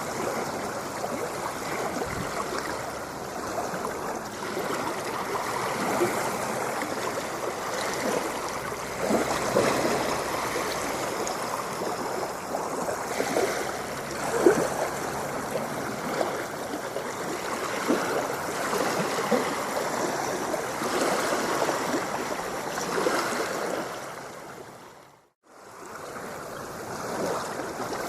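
Ocean water lapping and splashing in a steady wash, with many small splashes and gurgles. It fades out to a moment of silence near the end, then fades back in.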